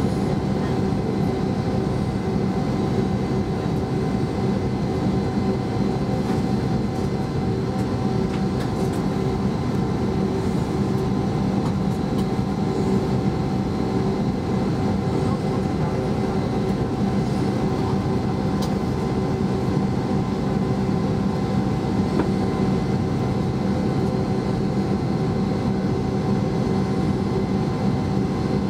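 Cabin noise of an Airbus A320 with its IAE V2500 engines running: a steady drone with several held whine tones over a rumble, not changing in level.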